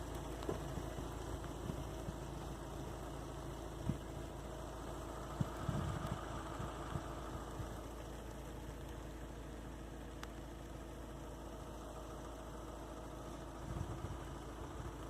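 A motor idling steadily, with a low hum and a few soft knocks.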